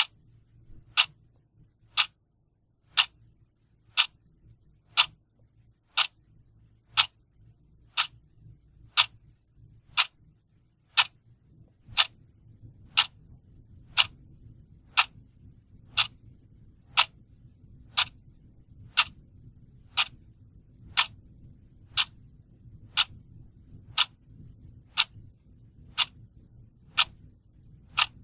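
Clock ticking steadily, one sharp tick each second, with a faint low hum underneath that becomes a little stronger about twelve seconds in.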